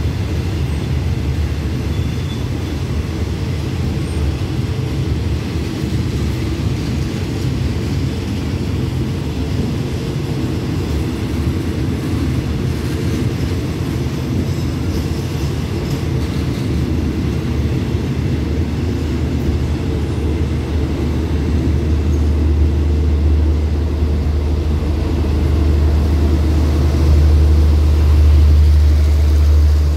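Passenger train carriages of a Thai express rolling along the platform as the train pulls out, a steady low rumble that grows louder toward the end.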